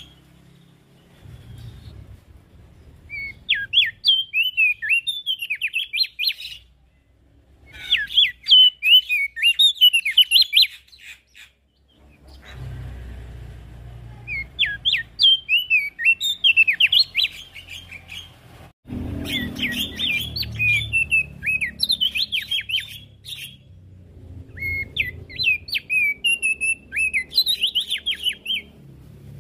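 Opior jambul (Javan grey-throated white-eye) singing in bouts of quick, chattering, high chirps. Each run lasts a few seconds, with short pauses between.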